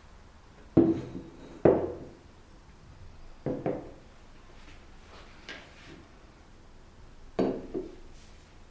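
Household objects being handled and set down on a hard surface: a series of sharp knocks and clatters, the two loudest in the first two seconds, then a quick pair, a lighter knock and another pair near the end.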